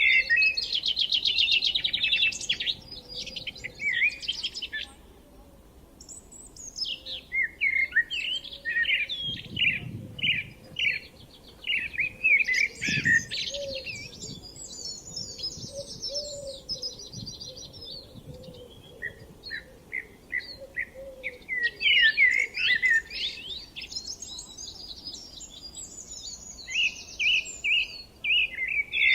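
Songbirds singing in the countryside, several repeated chirping phrases overlapping, with a fast rapid trill at the start and again near the end.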